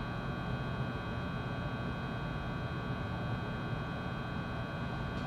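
A JR West 223 series electric train standing at a station: steady hum from its onboard equipment, with several steady high-pitched tones over it and no wheel or traction-motor sounds.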